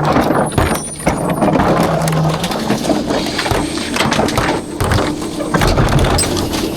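A rear-loader garbage truck handling a load of trash: dense clattering and crunching with many sharp knocks, and a steady hum joining about halfway.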